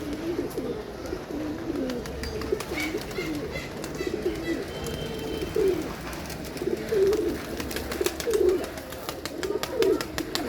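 Pigeons cooing, several at once, a steady overlapping run of low warbling coos with scattered faint clicks.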